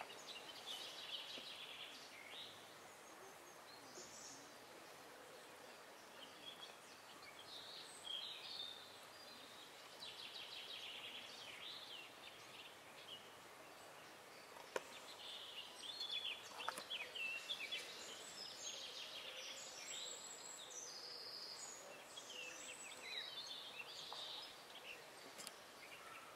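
Songbirds singing, several short chirping phrases from more than one bird, overlapping at times, over a faint steady hiss. A single sharp click about halfway through.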